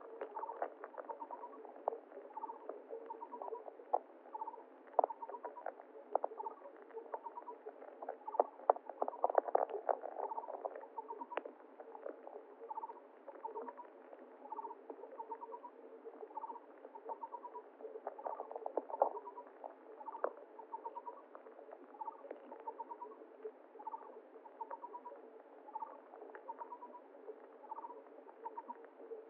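Stream-side ambience: a short trilled chirp repeats about once a second over the steady rush of flowing water, with scattered sharp clicks and splashes, thickest about nine to eleven seconds in.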